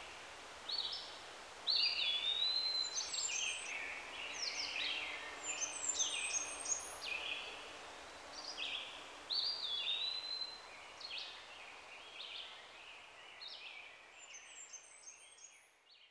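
Songbirds chirping and singing in quick, overlapping phrases of short, gliding notes. The birdsong fades out near the end.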